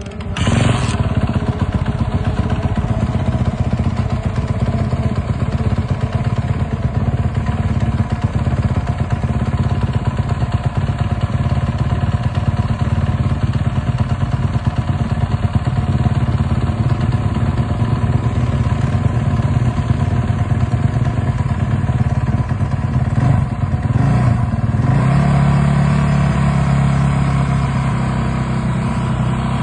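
Suzuki RM dirt bike engine running close by. It comes in abruptly about half a second in and runs with a fast, rough firing rhythm and some blips. After about 25 seconds it settles into a steadier, deeper note.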